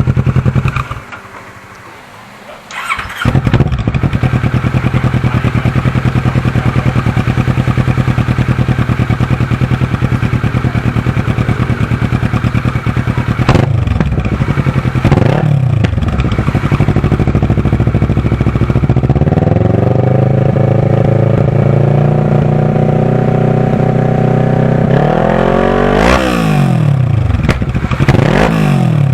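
Kawasaki ER-6's parallel-twin engine running through an aftermarket full-system exhaust with an Akrapovic tail pipe. After a brief lull about a second in, it fires up and idles, then is revved in quick blips, held at higher revs for a few seconds, and blipped twice more near the end.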